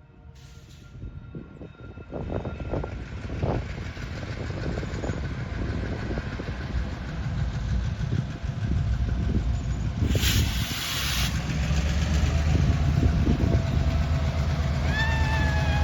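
Freight train rolling past, its low rumble growing louder with the clacking of wheels over the rails. A brief hiss about ten seconds in, and a pitched horn-like tone near the end.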